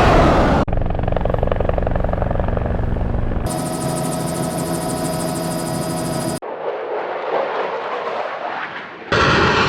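Several short aircraft sound effects in a row, each cut off abruptly. First a helicopter-like rapid rotor chop, then an engine whine with steady high tones, then a rushing noise that swells and fades away.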